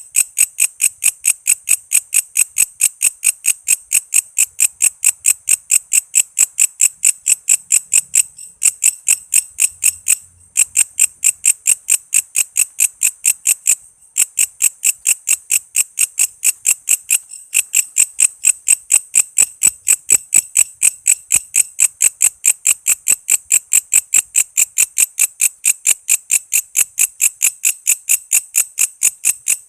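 A walang kece insect calling loudly in a fast, even train of shrill, high chirps, about three to four a second, with a few short breaks.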